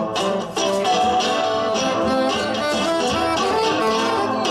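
Live band playing an instrumental passage between sung lines: a strummed guitar, with held melody notes over it.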